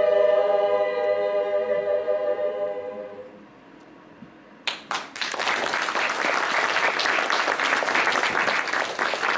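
A cappella choir holding its final chord, which fades away about three seconds in. After a short pause a few single claps ring out and then the audience breaks into steady applause.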